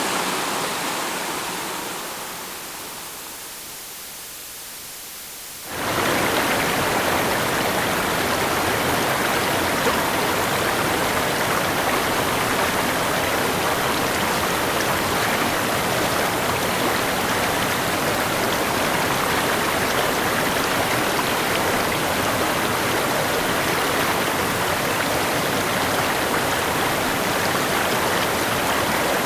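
Flowing river water: one recording of a rushing stream fades out over the first few seconds, then about six seconds in another begins abruptly, a steady rushing of water that holds level.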